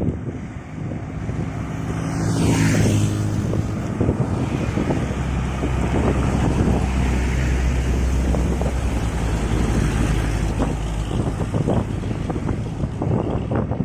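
Heavy truck traffic passing close by on a highway, with wind on the microphone. A falling whine and engine hum sweep past about two seconds in, then a heavy engine's steady low drone holds for several seconds.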